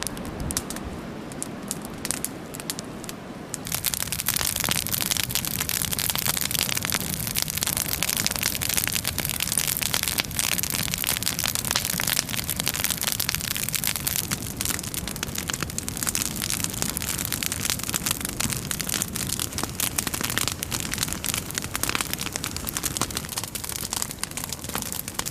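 Evenki yurlok log fire crackling and hissing, with a dense run of small pops, louder from about four seconds in.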